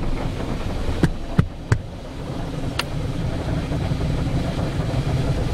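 Automatic car wash machinery heard from inside the car: a steady low rumble, with three sharp knocks in quick succession about a second in and a faint tick a little later.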